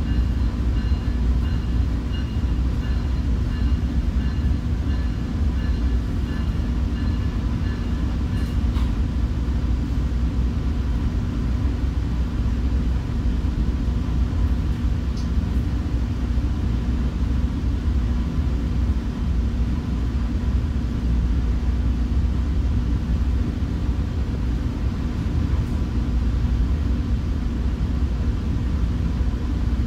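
Commuter train running at steady speed, a continuous low rumble from the wheels and running gear. A faint pulsing high-pitched tone cuts off about nine seconds in.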